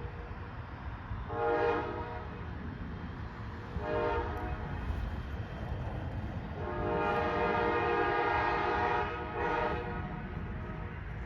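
Locomotive air horn sounding a chord in four blasts: two short, then one long, then a short one. A steady rumble of the moving train runs underneath.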